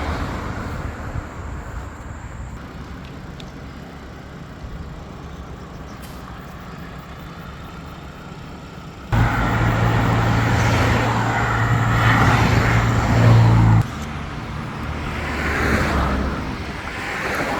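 Motor vehicles passing on a road, swelling and fading. About nine seconds in the sound jumps suddenly louder for about five seconds, then drops back.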